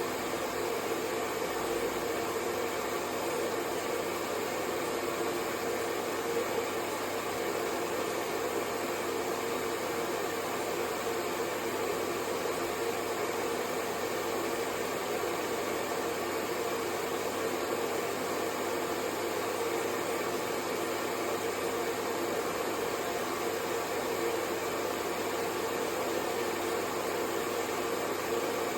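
Hair dryer blowing steadily, a continuous even whoosh of air with a faint motor hum and no change in speed.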